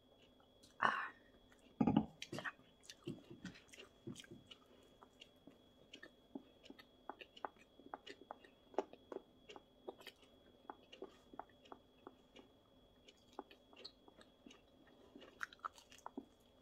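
Close-miked eating: a louder sip and swallow in the first two seconds, then steady chewing of pizza and flammkuchen, with small wet mouth clicks and bites of crust several times a second.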